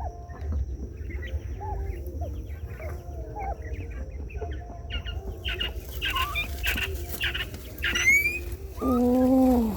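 Chickens clucking, many short calls one after another, with a loud drawn-out call near the end.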